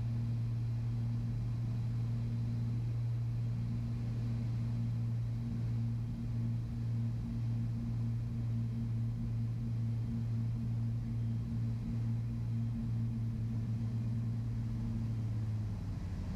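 Twin piston engines of a Beechcraft Baron B55 heard in the cockpit at low power, a steady low drone with a slow pulsing beat. The drone drops a little near the end.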